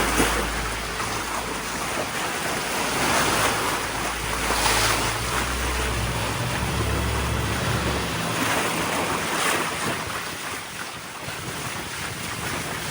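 Wind on the microphone and water rushing past a sailboat's hull under way, a steady noise that swells and eases in waves, with a low rumble that drops away about two-thirds of the way through.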